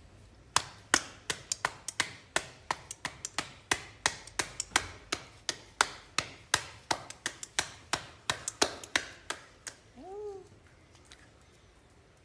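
A rhythmic run of sharp taps, about three a second, keeping a rough beat for about nine seconds, then stopping; just after, a short pitched call that rises and falls.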